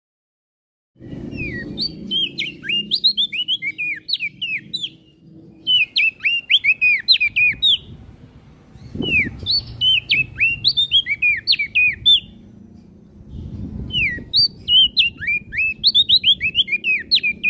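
A prenjak daun songbird singing in four bursts of quick, high chirping notes that each sweep downward, over a low background rumble. The song starts about a second in, after dead silence.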